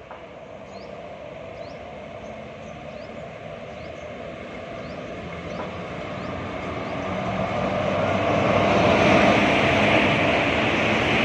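Passenger train hauled by an Indian Railways WAP-4 electric locomotive approaching, its rumble growing steadily louder until it is close by about nine seconds in.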